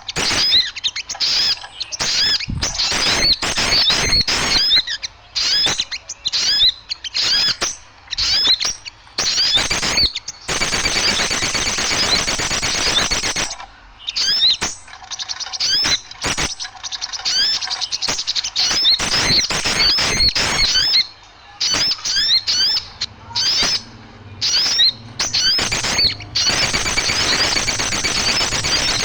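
A noisy chorus of many small birds chirping and chattering in rapid, overlapping bursts of high chirps, with two denser, busier stretches.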